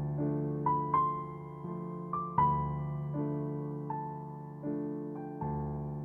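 Soft background piano music: slow, sustained chords and single notes struck about once a second, each ringing and fading.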